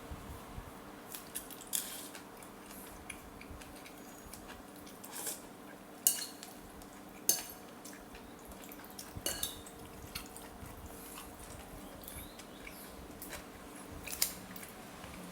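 Spoon and chopsticks clinking against a soup bowl during eating: sharp, irregular clinks a second or two apart, the loudest about six and seven seconds in, over a steady faint hum.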